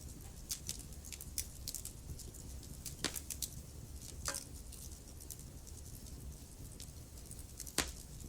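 Wood fire crackling in a fireplace: a run of small sharp snaps over a low steady rumble, with louder pops about three seconds in, a little after four seconds, and near the end.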